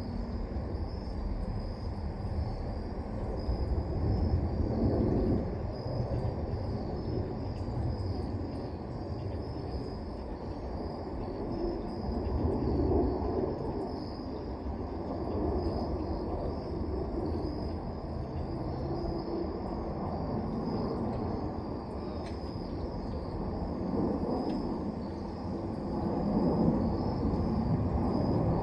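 Crickets chirping steadily at night over a low outdoor rumble that swells and fades several times.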